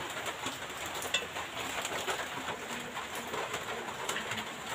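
A bird calling in low, drawn-out notes over a steady hiss.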